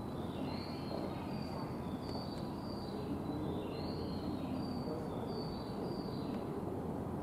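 Birds chirping repeatedly, a string of short, high chirps, over a steady low hum of outdoor background noise.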